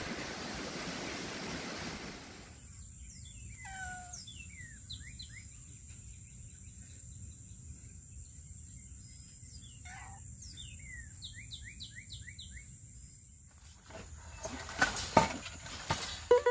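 Wind noise on the microphone at first, then a quiet stretch in which a bird sings two runs of quick, downward-sweeping chirps over a faint steady high tone. Near the end come knocks and rustling.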